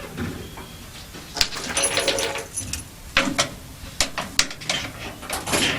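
Several sharp knocks and clicks as the food truck's fittings are opened and handled, with a brief metallic ringing about two seconds in.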